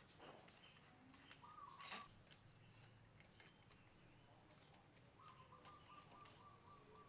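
Near silence with faint bird chirps and a thin trilling call in the background, plus a few light clicks.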